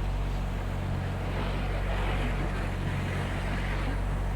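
Steady low drone of a vehicle's engine running, with a rushing noise swelling in the middle.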